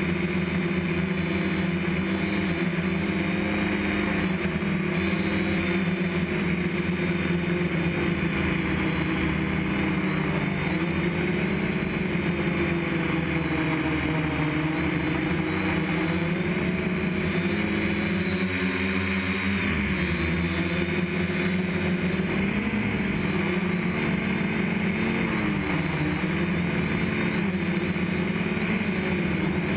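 Motors and propellers of a DJI F550 hexacopter running in flight: a steady drone made of several pitches that drift up and down as the rotor speeds change.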